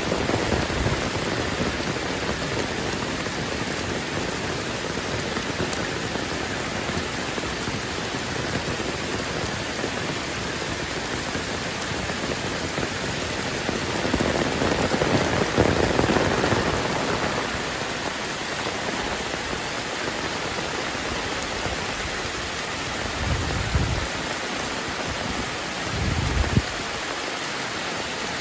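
Heavy rain pouring steadily, swelling louder for a few seconds about halfway through, with two short low rumbles near the end.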